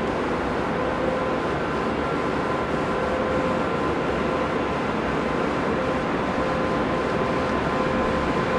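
Passenger train rolling slowly along the platform: a steady rumble with a few held tones over it.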